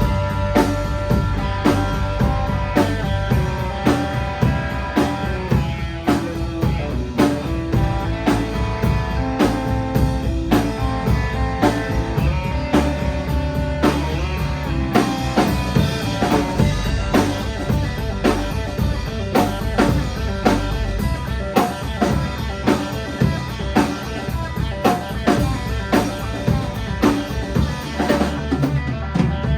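A band rehearsing a song, with a drum kit keeping a steady beat under guitar.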